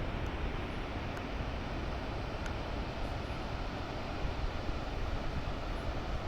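Sea waves washing against the shore in a continuous, steady low rush.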